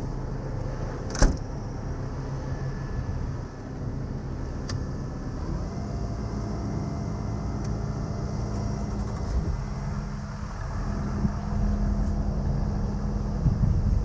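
Truck engine running steadily at idle, with a sharp click about a second in.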